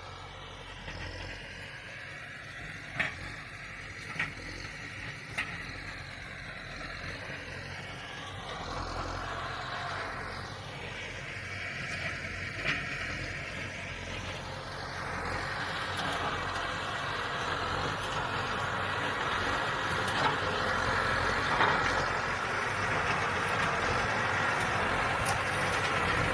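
Large farm tractor's diesel engine running steadily while plowing, growing louder from about halfway through as it comes closer. A few sharp clanks are heard in the first half.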